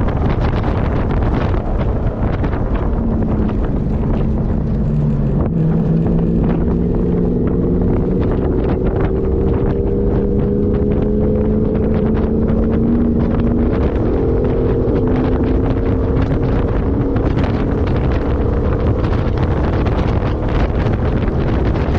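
Heavy wind buffeting the microphone, with an off-road 4x4's engine note heard through it from a few seconds in until about three-quarters of the way through, its pitch slowly climbing and dipping.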